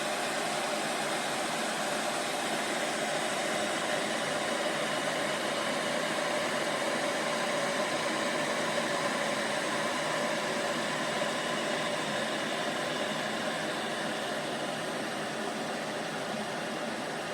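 Glass electric kettle heating water, a steady rushing, hissing sound of water working up toward the boil.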